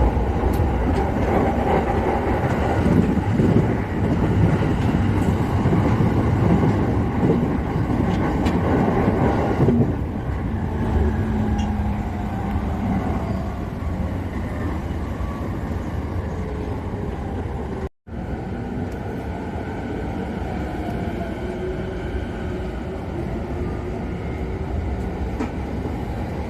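Electric commuter train running at speed, heard from inside the front carriage: a steady rumble, louder for the first ten seconds, then quieter with faint whining tones that glide up and down. The sound cuts out completely for an instant about 18 seconds in.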